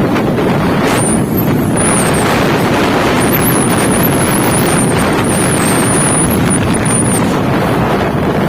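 Wind buffeting the microphone on a moving motorcycle, over steady engine and road noise. A thin, high, wavering whine runs through the middle and fades out near the end.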